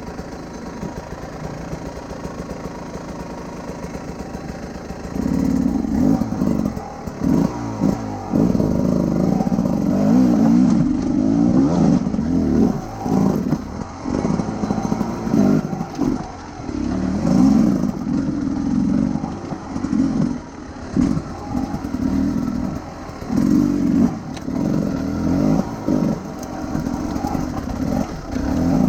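Motorcycle engine idling steadily for about five seconds, then getting louder as the bike is ridden, the throttle opened and closed again and again so the engine note keeps rising and dropping.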